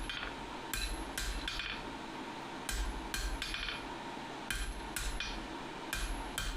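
Hand hammer striking hot steel on an anvil, in short runs of three or four blows with brief pauses, each blow with a short metallic ring. The hammering is forging a burnt tong jaw of sucker-rod steel back up to thickness.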